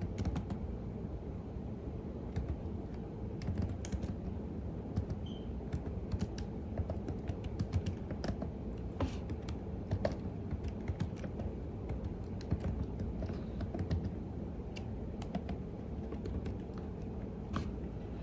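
Computer keyboard being typed on at an unhurried pace, irregular key clicks over a steady low background noise.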